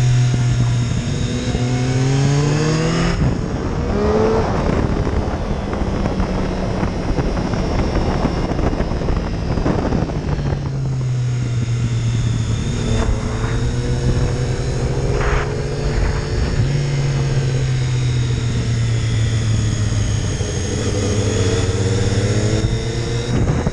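Triumph Daytona 675's inline three-cylinder engine under way, its note rising over the first few seconds. Wind rushing over the microphone then dominates for several seconds before the engine note comes back steadier.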